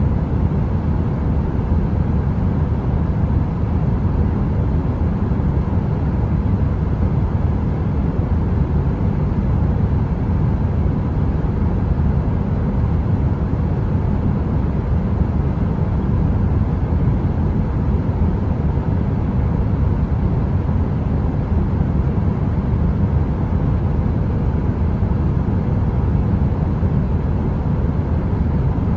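Heater noise: a steady, deep whooshing hiss, heaviest in the low end, with a faint steady hum above it and no crackle or change.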